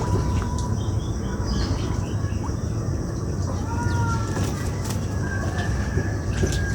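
Strong wind buffeting the microphone with a steady low rumble, with a few short whistled bird calls over it.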